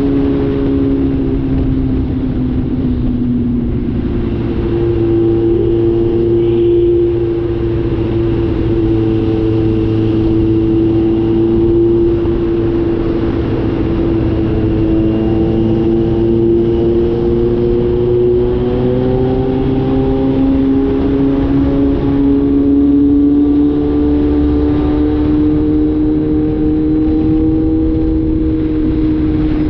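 Kawasaki Z900 inline-four engine running through a cat-deleted exhaust while riding, its note steady with slow falls and rises as the throttle changes, dipping a few seconds in and climbing again past the middle.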